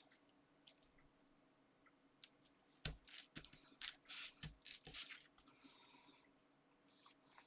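Card and paper being handled on a craft desk: a handful of soft taps, clicks and rustles in the middle, otherwise near silence.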